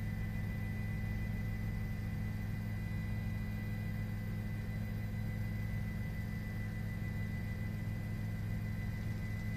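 Steady low drone of a helicopter cabin heard through an intercom or headset feed, with a thin steady high whine over it and no change throughout.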